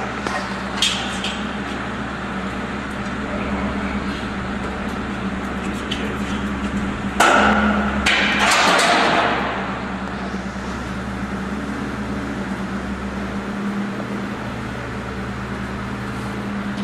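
Vehicle engine idling steadily, with a sharp clank just under a second in and a loud hissing rush about seven seconds in that lasts two to three seconds.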